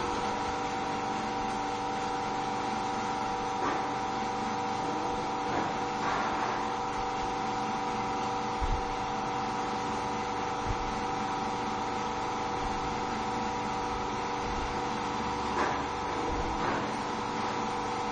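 Steady machine hum holding several fixed tones, with a few faint knocks over it.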